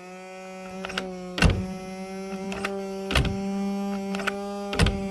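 Paslode IM65A gas nail gun's fan motor running with a steady electric hum, with three sharp clicks about a second and a half apart as the gun is worked, but no shot goes off. The gun won't fire because its broken yoke stops the combustion chamber from plunging correctly.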